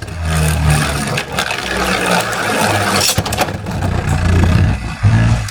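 Beyblade spinning tops whirring and clattering against each other in a plastic stadium, with many rapid clicks over a steady low hum. The sound starts suddenly.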